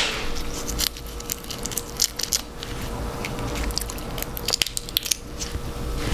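Close-up eating sounds from a seafood boil: crab shell cracking and crunching with wet, sauce-soaked squishing and chewing, heard as many small irregular clicks and cracks.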